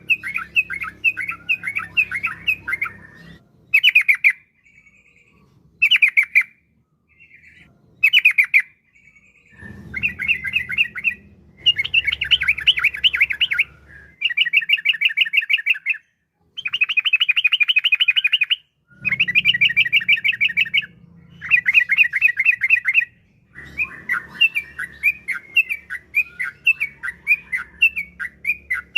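Yellow-vented bulbul (trucukan) singing in long rolling phrases of fast chattering notes, each run lasting one to three seconds with short pauses between, and only a few short calls for several seconds near the start.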